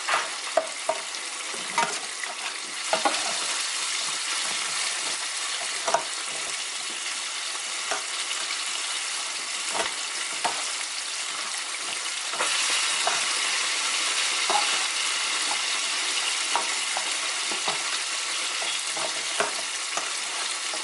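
Chicken frying in hot oil: a steady sizzle that gets louder about twelve seconds in, with scattered clicks and knocks of a utensil as the fried wings are mixed in sauce.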